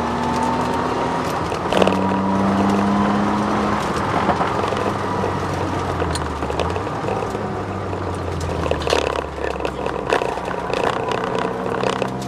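Ford Sierra XR4x4 twin-turbo engine pulling hard on track, heard from inside the car, with a pitch change at about two seconds and again at about seven seconds as gears change. A thin whine rises in the first couple of seconds, which the owner puts down to the solid diff mount. Knocks and rattles come through the car near the end.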